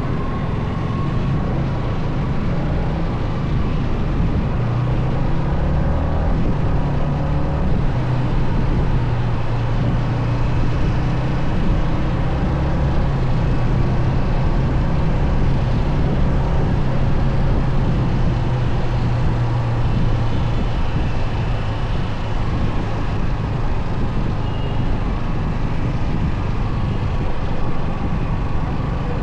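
Motorcycle engine running steadily on the move: a low hum that steps up slightly in pitch about five seconds in, over constant road noise.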